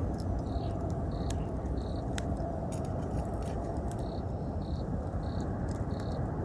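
Wood fire crackling, with scattered sharp pops over a steady low rumble of burning. An autumn insect chirps in short high notes about every two-thirds of a second, three times, then a pause, then four more.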